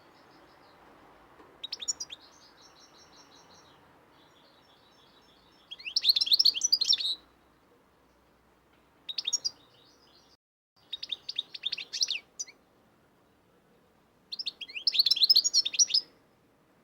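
Pet songbirds chirping and singing in five short bursts of rapid, high twittering, with faint steady background noise between them.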